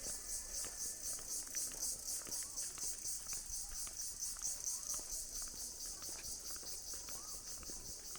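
A chorus of insects (jhijhi poka, the local name for cicadas and crickets) calling in a steady, high-pitched, evenly pulsing drone, with a few faint bird chirps underneath.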